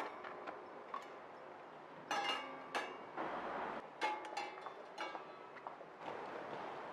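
Several light clinks and knocks of hard objects being handled, a few of them ringing briefly, over a faint steady hiss.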